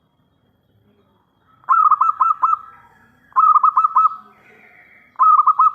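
Zebra dove (perkutut) cooing. Three short phrases come about a second and a half to two seconds apart, starting about a second and a half in. Each phrase is a quick run of four or five clear cooing notes.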